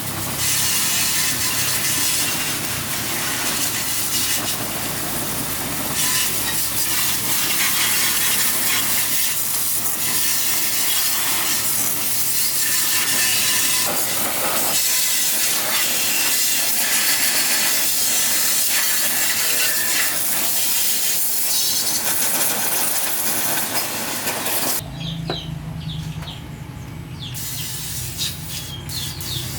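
A loud, steady hissing rush, which stops abruptly about 25 seconds in and gives way to a low steady hum with light clicks.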